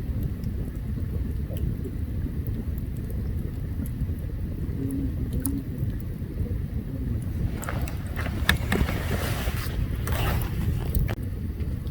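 Open campfire burning: scattered sharp crackles over a steady low rumble, with a denser burst of hissing and crackling from about eight to eleven seconds in.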